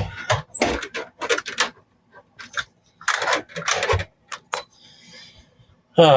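A run of irregular sharp clicks and knocks, with a faint hiss near the end.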